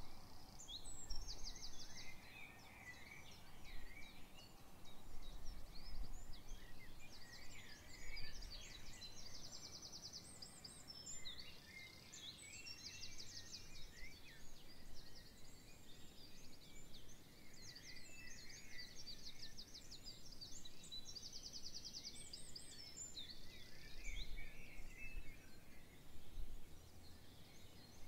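Several songbirds singing at once, a busy chorus of chirps and whistles, with a fast trill of rapidly repeated notes coming back several times.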